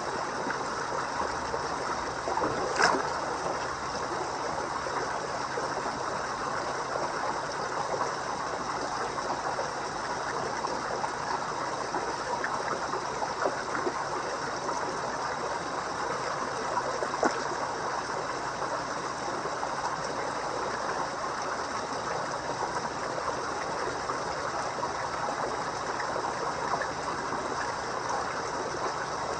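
Koi pond water trickling and splashing steadily, with a few brief sharper splashes, the clearest about three seconds in and another near the middle.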